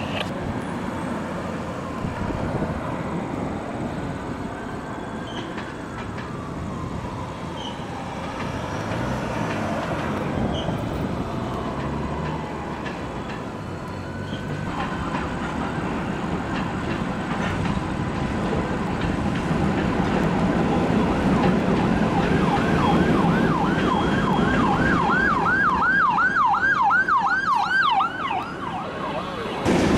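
Freight train of covered hopper cars rolling past with a steady low rumble. Over it a siren sounds, first in slow rising and falling wails, then for several seconds near the end in a fast up-and-down yelp.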